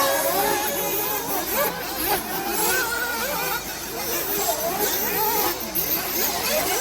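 Several 1/8-scale nitro off-road RC buggy engines running at once, their pitch rising and falling over and over as they rev up and back off.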